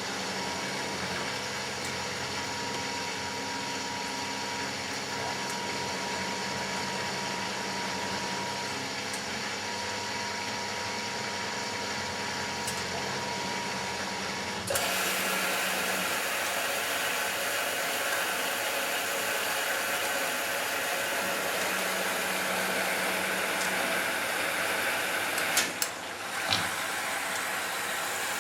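Matura Autostatic 850 washing machine running a 60 °C delicates wash. About halfway through, a louder steady hiss starts abruptly, and two short clicks come near the end.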